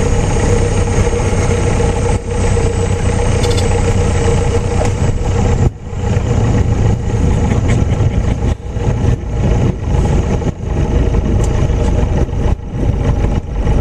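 Light aircraft's engine and propeller drone heard from the cockpit, steady at first. From about six seconds in it turns choppy, with repeated brief dips in level.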